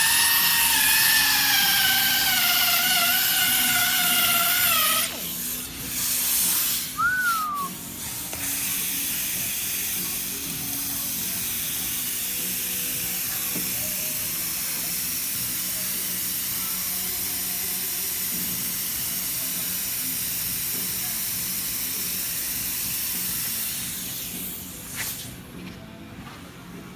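Air-powered rotary polisher with a wool pad buffing a plastic headlight lens: a whine whose pitch slowly sinks as the RPM eases off over the edges, stopping about five seconds in. It is followed by a long steady hiss of compressed air that fades out near the end.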